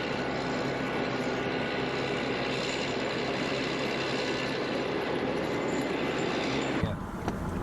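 Steady rushing roar of blizzard wind on the microphone, with no break until it cuts off suddenly about seven seconds in.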